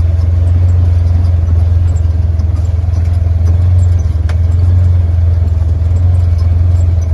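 Pickup truck engine running steadily with a constant low drone, with one brief click about four seconds in.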